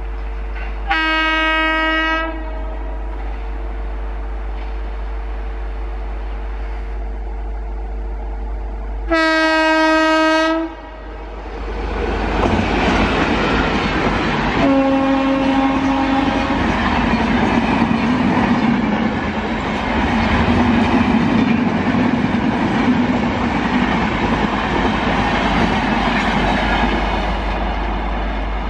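Indian Railways WCAM-3 electric locomotive horn sounding two blasts, each just over a second long and about eight seconds apart. From about 12 seconds in, a passenger train rushes past with loud wheel and rail noise, and a shorter, lower horn note sounds during the pass.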